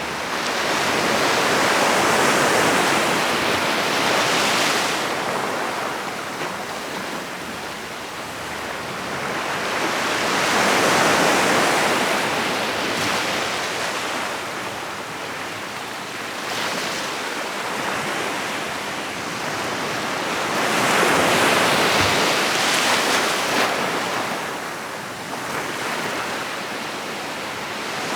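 Sea surf breaking and washing up the shore, in three slow swells of rushing water about ten seconds apart.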